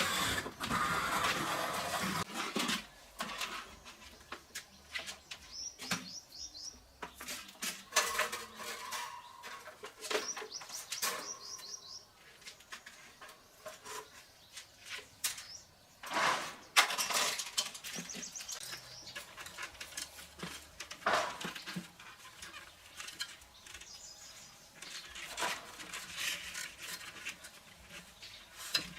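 Irregular clicks, knocks and scraping from hands working on small parts, loudest near the start and again about halfway through. Short quick series of high chirps, like a small bird, come in a few times.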